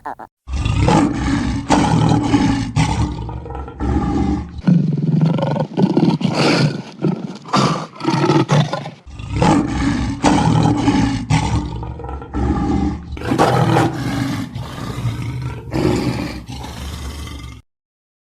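Lion roaring: a long series of loud, deep roars that stops near the end.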